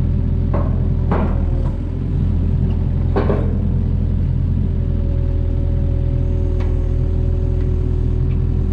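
Mini excavator engine running steadily, with a few sharp knocks in the first few seconds. A steady whine joins it about five seconds in.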